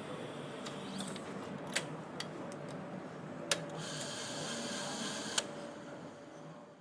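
Factory machinery running steadily with sharp metallic clicks and knocks every second or two and a higher whirr joining partway through, fading out at the end.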